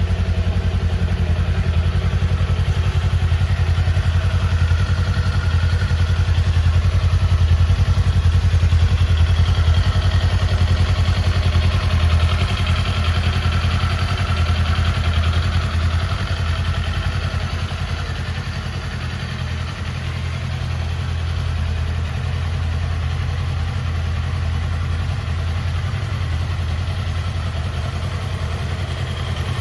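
Kawasaki Eliminator 400 SE's 398 cc parallel-twin engine idling steadily, a little louder in the first half before easing slightly about two-thirds of the way through.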